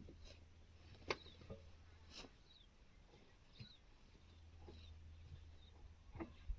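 Near silence: a faint steady low hum with a few scattered soft clicks and small chirps.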